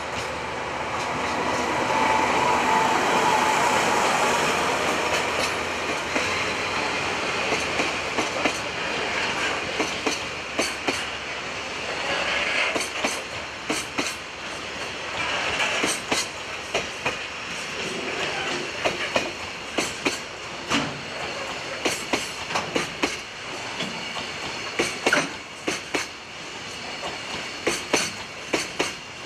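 Diesel-hauled freight train rolling along the track: a loud rushing run that peaks a few seconds in, then the wagons' wheels clacking over rail joints in sharp, uneven clusters.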